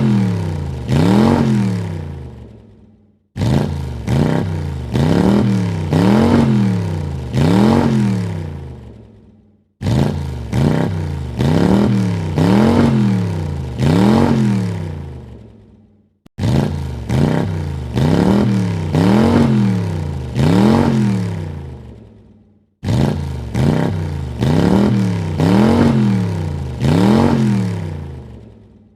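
A car engine is revved three times in quick succession, each rev rising and falling in pitch, then dying away. The same recording starts abruptly and repeats about every six and a half seconds, several times over.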